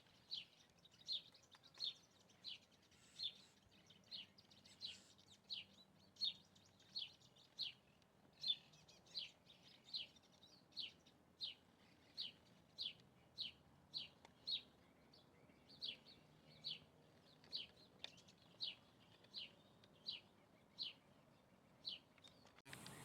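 A bird repeating one short, high call note that slides down in pitch, a little more than once a second, steadily and evenly spaced; it stops abruptly near the end.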